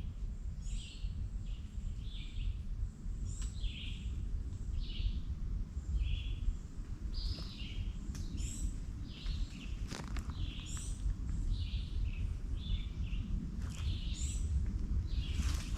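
Wild birds chirping, short high calls repeating about once a second, some dropping in pitch, over a steady low rumble. A single click about ten seconds in.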